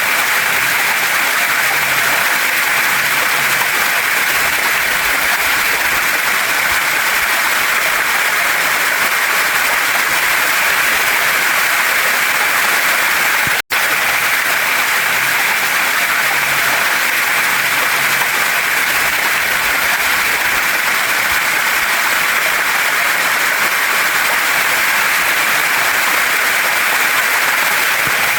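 Waterfall and stream water rushing over rocks: a steady, even hiss with no let-up, briefly cutting out for an instant about fourteen seconds in.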